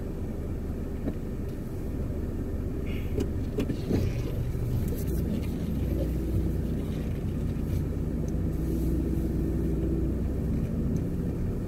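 Inside a car's cabin: the engine running and the car moving slowly, a steady low hum with engine tones that firm up about halfway through, and one light knock about four seconds in. No grinding or wheel-bearing noise is heard, which the owner takes as a sign that the refitted caliper bracket bolt has fixed the problem.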